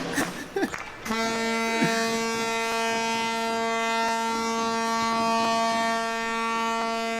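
Ship's horn sounding one long, steady blast that starts abruptly about a second in and holds at one pitch.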